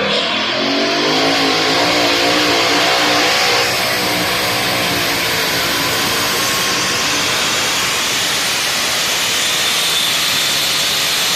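Two-wheel-drive pulling truck's engine revving up, its pitch rising over the first few seconds, then held at high revs under load during a pull. It cuts off suddenly at the end.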